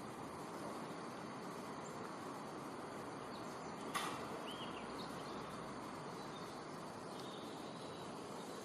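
Faint, steady outdoor ambience, an even hiss of background noise. There is a single sharp click about four seconds in, followed by a brief high chirp.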